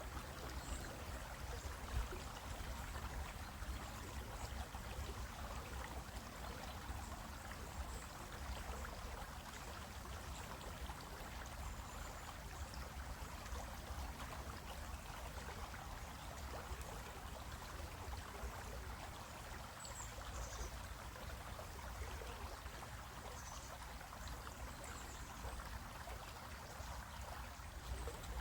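Stream water flowing and splashing over rocks, a steady rushing with a low rumble underneath.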